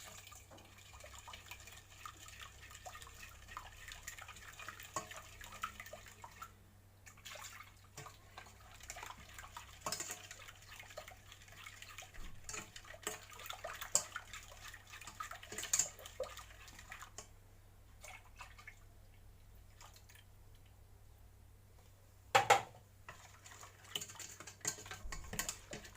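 Milk poured gradually into a saucepan of lemon juice, sugar and pastry-cream powder while a hand whisk stirs it: soft liquid splashing with many small clicks of the whisk against the pan. There is one louder knock a few seconds before the end.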